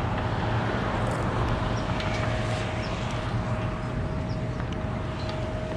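Bucket truck's engine running steadily: a low hum with a faint, steady high whine over it.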